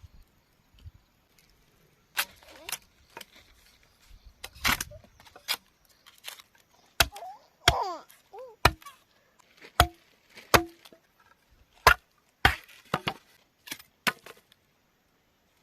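A blade chopping bamboo: a long run of sharp, irregular chops starting about two seconds in, some leaving a brief ringing tone.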